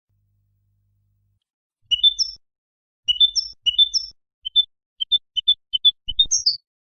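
European goldfinch singing: bursts of quick, high twittering notes begin about two seconds in, then a run of short clipped notes, ending in a brief flourish near the end.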